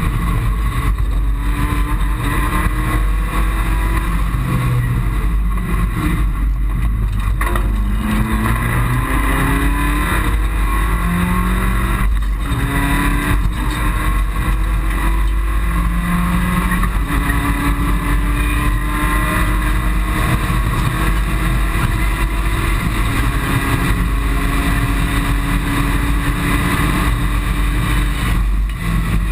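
Mitsubishi Colt rally car's engine, heard from inside the cabin under hard acceleration: its pitch climbs through the gears and drops back at each upshift, then holds fairly steady at speed. A heavy low road and cabin rumble runs underneath.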